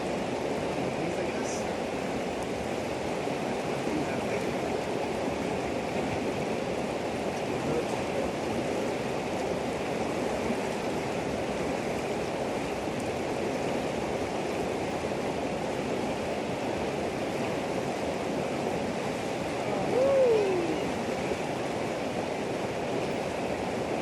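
Kootenai River water rushing steadily. Near the end a single short cry from a voice slides down in pitch.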